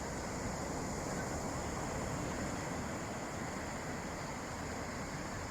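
Calm sea waves washing on the shore: a steady rushing noise without distinct breaks or crashes.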